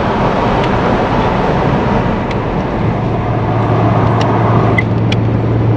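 Car driving along a road towing a trailer: steady engine and tyre noise with a low hum, and a few faint ticks about four to five seconds in.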